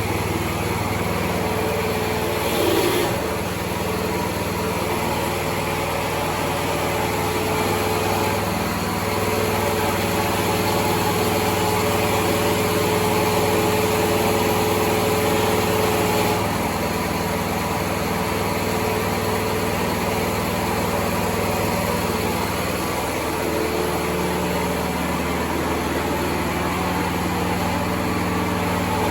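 Small new petrol engine of a freshly assembled excavator running steadily on its first trial run after assembly, driving the hydraulics. Its note shifts briefly about three seconds in and changes again around the middle and later on.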